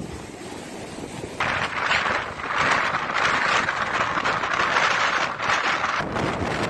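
Storm wind rushing over the microphone, a steady noise that grows louder about a second and a half in.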